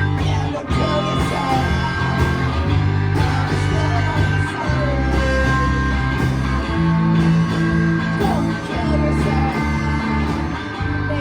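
Rock song played live: guitar and bass chords with a singer's voice over them.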